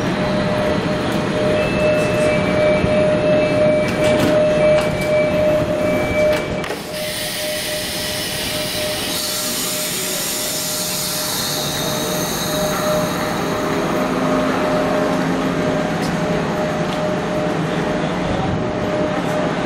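Diesel multiple unit at the platform, running with a steady whine. A repeated two-tone beeping sounds for a few seconds, then a sudden hiss of air comes about seven seconds in and fades away.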